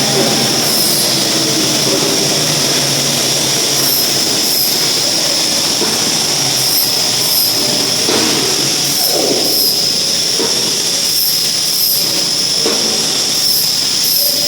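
Loud, steady machinery noise with a constant high whine, broken by short high hisses that come in pairs every two seconds or so.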